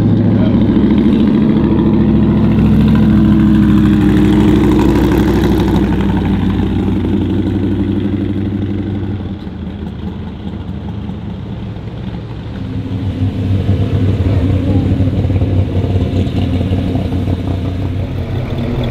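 Car engine running with a steady, slightly wavering note. It is loud at first, fades for a few seconds in the middle, and grows louder again about two-thirds of the way in.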